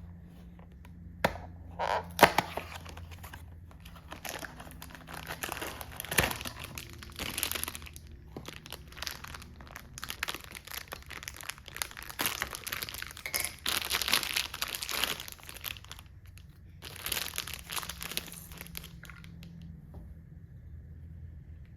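Crinkling and rustling in irregular bursts, as something crinkly is handled, with a few sharp clicks that are loudest near the start, over a faint steady low hum.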